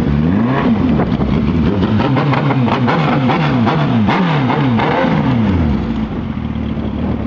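Suzuki Hayabusa 1300's inline-four engine revved on a stationary bike, about a dozen quick blips of the throttle up and down in a row, then dropping back to a steady idle near the end.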